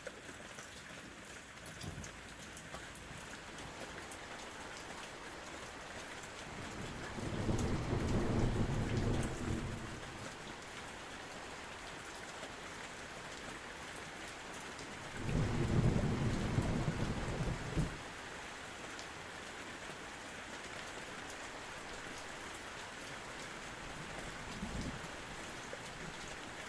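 Steady rain falling throughout, with two long rolls of thunder rumbling about seven and fifteen seconds in, each lasting a few seconds, and fainter distant rumbles in between.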